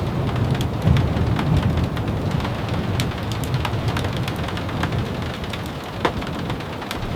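Steady rain with many short sharp ticks and taps scattered through it over a constant low rumble.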